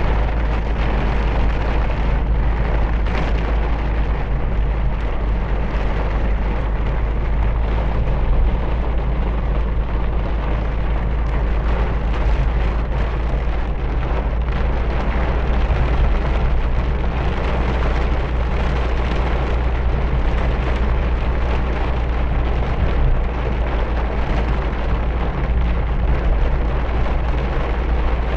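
Heavy rain falling steadily and loudly, with a strong deep rumble underneath.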